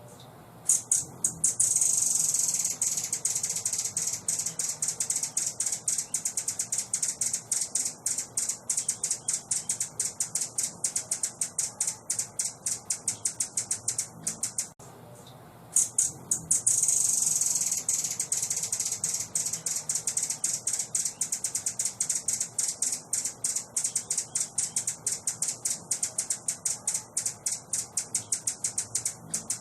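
A small bird's high-pitched rattling call, played as a masteran (training) recording. It begins as a fast, dense trill and breaks into separate dry ticks that gradually slow. It cuts off about halfway through and the same sequence starts over, so the recording is looped.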